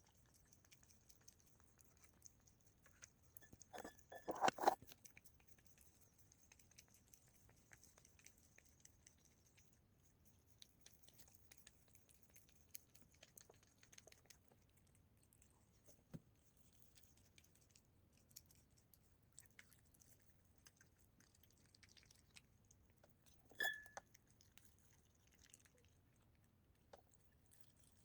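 Cat chewing its food: soft, faint ticking and crunching bites throughout, with a louder flurry of bites about four to five seconds in and one short, sharper sound near the end.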